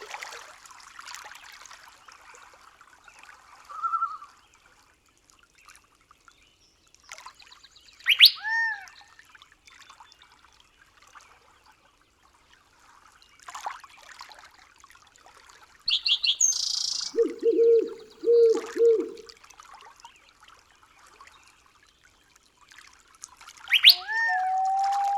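Forest nature soundscape of scattered animal calls. There are separate bird-like chirps and arching whistles, a short high buzzy call, a run of four low pulsed calls about two-thirds through, and a long steady whistle that begins near the end, all over a faint hiss.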